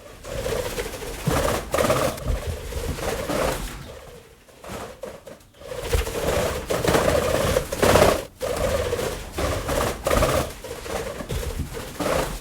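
Birds calling in repeated low swells over a steady noisy background, loudest about two-thirds of the way through.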